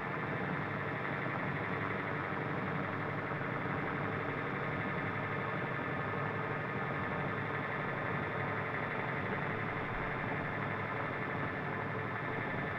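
Radio-controlled model helicopter's motor and rotor blades running steadily in flight.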